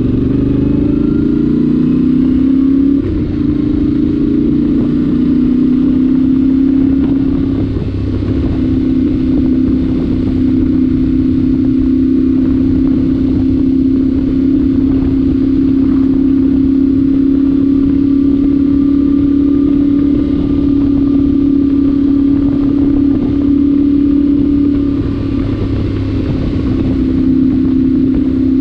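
Yamaha Ténéré 700's parallel-twin engine running at a steady road cruise through its stock exhaust with the spark arrestor removed. The note settles in the first few seconds, then holds steady apart from brief shifts in pitch.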